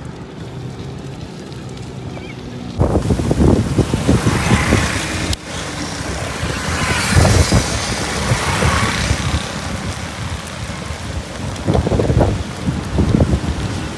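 Wind buffeting the microphone during a bicycle ride, in irregular heavy gusts over a steady rush of road noise; the buffeting jumps much louder about three seconds in.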